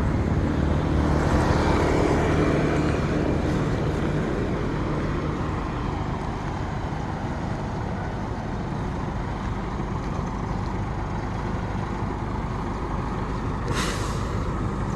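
Motor vehicle engine running close by, a steady low hum that eases off after the first few seconds into a general traffic rumble, with a short hiss near the end.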